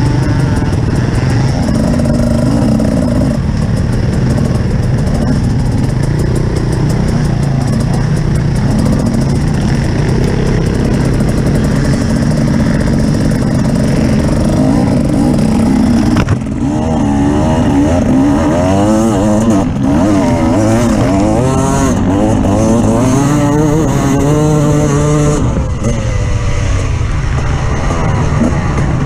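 Off-road vehicle engine running under way, fairly steady at first, then revving up and down rapidly through the second half.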